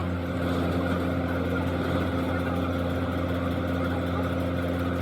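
An engine running at a steady idle, an even hum that does not change.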